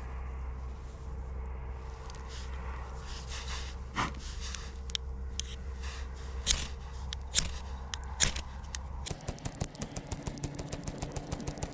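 Fire steel scraped to throw sparks onto tinder. There are a few separate strikes, then rapid repeated scraping from about nine seconds in.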